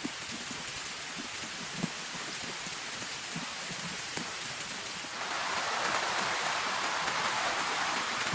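Rain falling steadily on a tent, with a few heavier single drops knocking on it. The rain turns louder and heavier about five seconds in.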